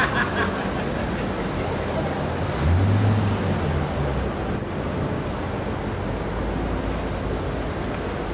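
Corvette V8 engines running at low speed as the cars drive slowly past one after another, one engine's drone growing louder and falling away around three seconds in, over a steady rush of noise.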